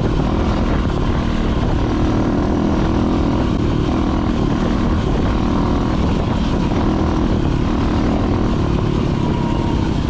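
Dirt bike engine running steadily at a fairly even pitch, loud and continuous, with a dense low rumble beneath it.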